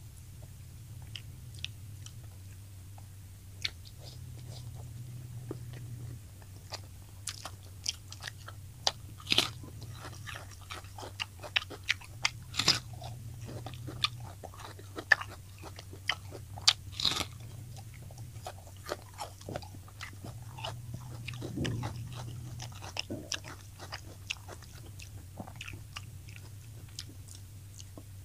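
Close-up chewing and biting of crispy fried tilapia: a run of sharp crunches, thickest in the middle, with wetter chewing between them. A low steady hum runs underneath.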